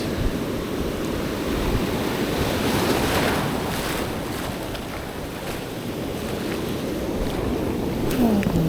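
Ocean surf breaking on a sandy beach, with wind on the microphone; a wave swells and breaks about three seconds in.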